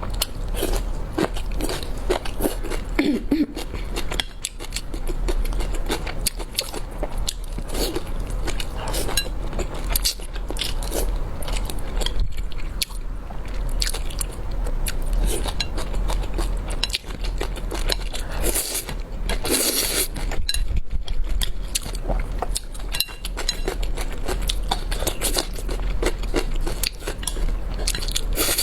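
Close-miked mouth sounds of eating spicy udon noodles: continuous chewing and biting with many small wet clicks, and a louder, hissier stretch about two-thirds of the way through.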